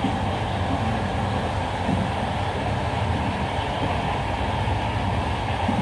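Steady rumble and rush of a moving passenger train, heard from inside a carriage.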